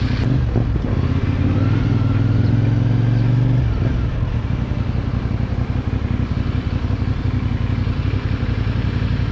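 CFMoto 450NK motorcycle's parallel-twin engine running, with a steady, fuller note for the first few seconds that drops back to a lower, rougher running just under four seconds in.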